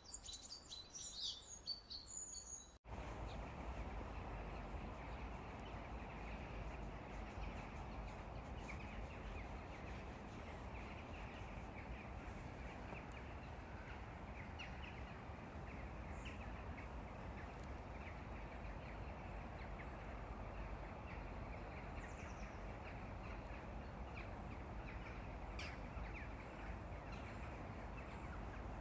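Birds chirping for the first few seconds, then an abrupt cut to a steady outdoor background hiss with a few faint, scattered bird chirps.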